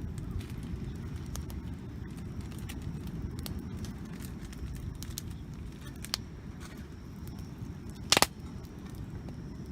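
Wood campfire crackling, with scattered small pops and one louder snap about eight seconds in, over a steady low rumble.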